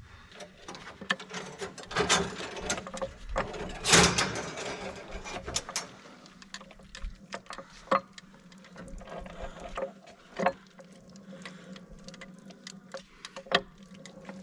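Irregular metallic clicks and knocks from a used Eaton Fuller truck transmission being handled and worked on by hand, louder about two and four seconds in, over a steady low hum.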